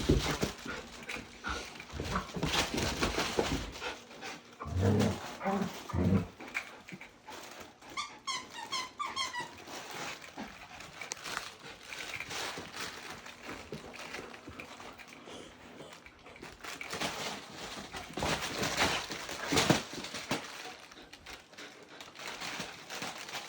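Two puppies tugging and wrestling over a plush toy: steady scuffling and rustling, a few short low growls about five seconds in, and a quick run of high-pitched whimpers around eight seconds.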